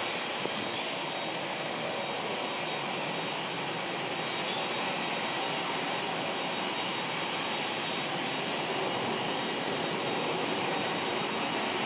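Jet engines of a Boeing 787-9 airliner running at low power while it taxis: a steady rushing noise with a thin high whine, growing slowly louder.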